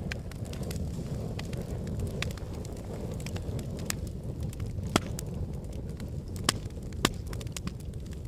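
Wood fire burning in a fireplace: a steady low rumble of flames with scattered crackles and three sharp pops in the second half.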